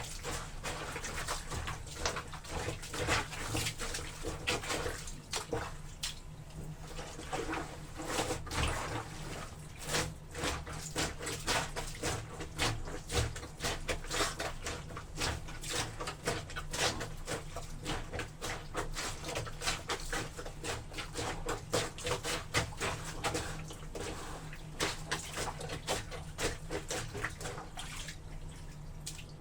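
Laundry being trodden underfoot in a tub of soapy water: a run of irregular splashing and squelching.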